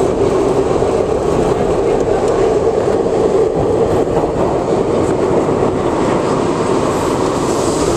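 Steady running noise of an R62A New York City subway car, heard from inside the car as it rolls along the track.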